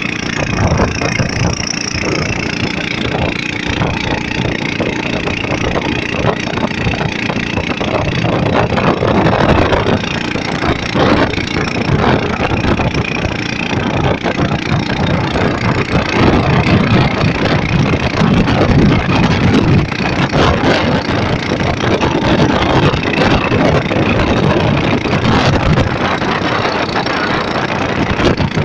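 Motorboat engine running steadily, nearly buried under a loud, continuous rush of storm wind and water noise.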